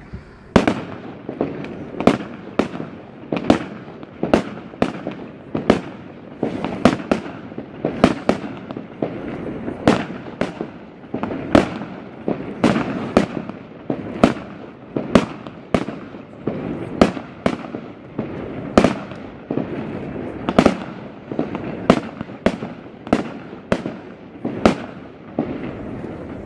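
Fireworks display: aerial shells bursting one after another, sharp bangs about one to two a second over a steady rumble, tailing off near the end.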